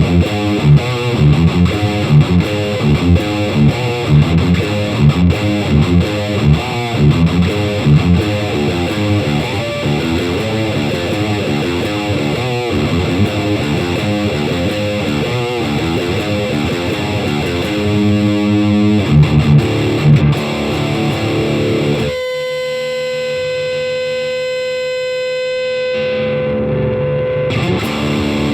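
Distorted electric guitar tuned to D standard, played straight into a Fender Champion 100 amp with no pedals, chugging a fast riff. About 22 seconds in, a held note rings out and slowly fades, and the riff comes back near the end.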